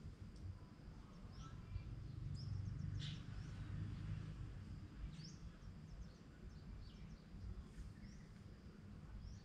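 Birds chirping faintly in short, high, rising calls scattered throughout, over a steady low rumble of background noise that swells a little in the first half.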